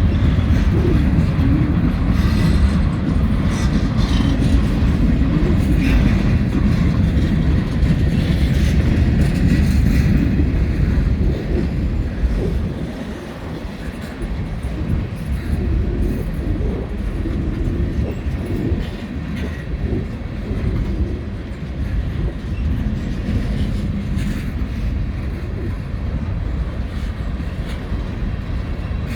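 Long freight train rolling past close by: steel wheels running over the rail in a steady heavy rumble, with a little clatter and wheel squeal. The rumble is heaviest for the first dozen seconds, dips briefly, then settles a little quieter.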